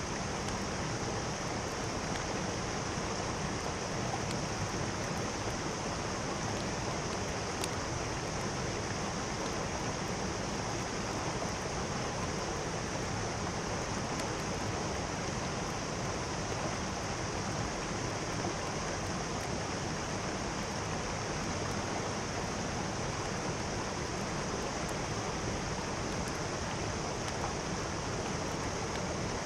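Mountain stream rushing steadily over rocks, an even unbroken wash of water noise.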